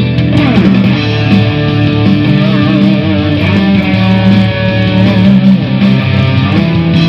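Distorted electric guitar played through a Lekato Tank G Black multi-effects unit on a Marshall-style overdrive patch with delay. A note slides down in pitch about half a second in, followed by held notes, with a rising slide near the end.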